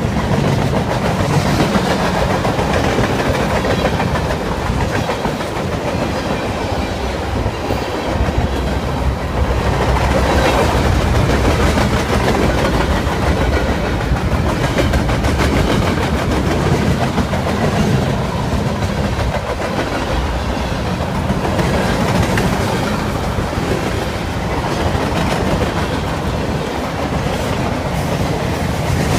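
CSX freight train rolling past, its cars' wheels running steadily along the rails without a break.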